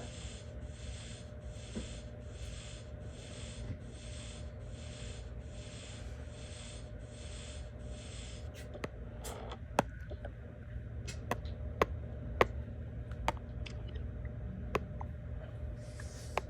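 Rhythmic scraping or brushing strokes, about one every second, for the first half. Then scattered sharp clicks and taps, over a steady low background hum.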